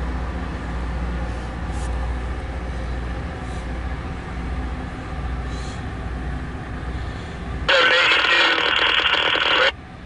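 CSX rail grinder train running with a steady low rumble. About eight seconds in, a scanner radio abruptly breaks in loudly with a transmission, drops out briefly near the end, then comes back.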